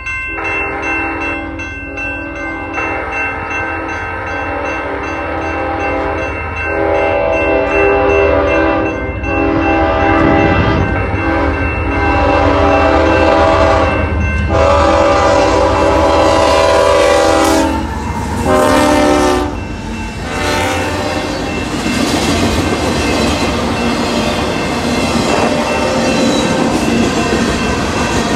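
Union Pacific freight train at a grade crossing: the crossing signal rings while the diesel locomotive's horn sounds in several long blasts, ending with a shorter one. Then the freight cars roll past, wheels clacking over the rail joints.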